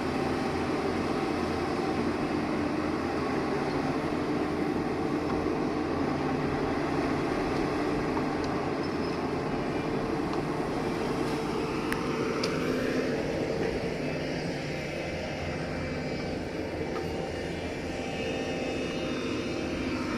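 Diesel engine of a Doosan hydraulic excavator running steadily under work, a continuous drone whose note changes about twelve seconds in.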